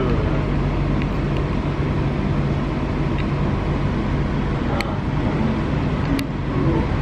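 Passenger train running, heard from on board: a steady rumble with a low hum and a few short sharp clicks, as the train pulls away from a station stop.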